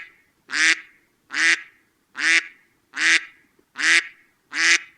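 A duck quacking in a steady series of loud, evenly spaced quacks, about one every 0.8 seconds.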